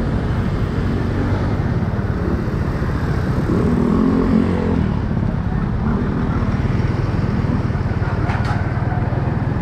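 Motorcycle engine running steadily while riding in road traffic. About four seconds in, a louder pitched engine tone rises briefly over it for about a second.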